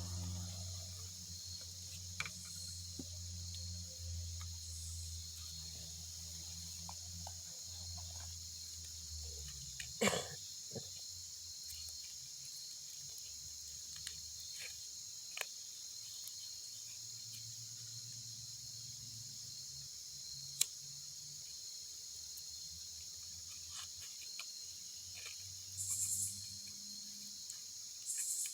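Steady high-pitched chorus of insects such as crickets. A low hum underneath stops about ten seconds in, and a few sharp clicks or knocks come through, the loudest one about ten seconds in.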